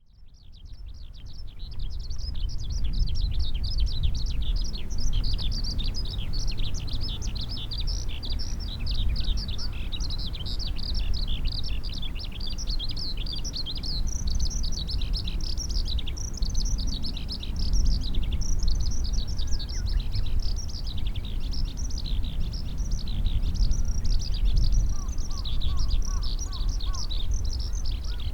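Many small birds chirping continuously, their rapid high chirps overlapping into a dense chorus, over a steady low rumble. The sound fades in over the first two seconds.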